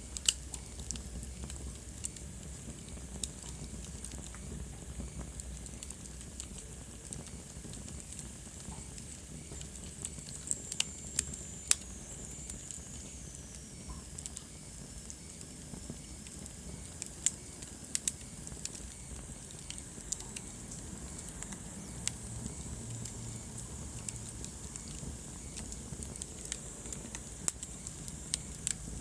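Wood fire burning in a fireplace: irregular sharp crackles and pops over a steady low rumble and hiss, with a faint high whistle sliding down in pitch around the middle.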